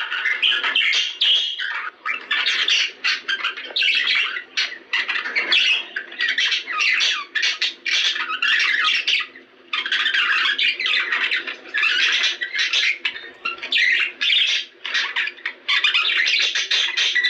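Budgerigars chattering and squawking, a dense, continuous run of rapid warbles and calls with a brief lull about ten seconds in.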